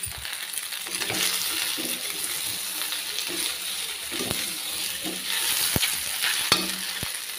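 Pieces of steamed rice fara sizzling as they fry crisp in oil in a metal kadhai, stirred with a metal spatula. The spatula knocks sharply against the pan a few times in the second half.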